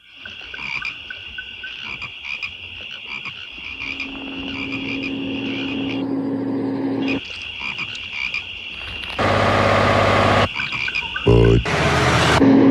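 Night-time chorus of frogs and insects with a steady high trill. A low steady hum comes in about four seconds in and stops about three seconds later. Near the end come loud sudden sounds: a long hiss, a short deep croak-like sound, then another hiss.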